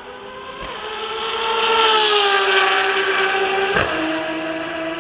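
Ferrari V12 track car passing by at speed. Its engine note swells to a peak about two seconds in and slides down in pitch as it goes by. Just before the end the note changes abruptly, as at a gear change.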